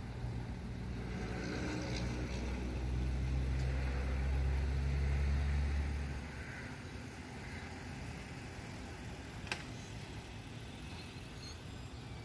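A vehicle engine running with a low, steady hum that grows louder and then stops abruptly about six seconds in, leaving a quieter background with a single click a few seconds later.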